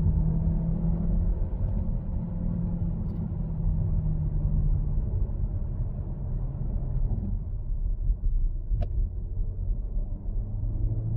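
Volkswagen T-Roc's 1.5 eTSI four-cylinder engine running steadily under road rumble. The drone holds one pitch for about five seconds, then sinks into the rumble, and a lower drone comes in near the end. A single sharp click sounds about nine seconds in.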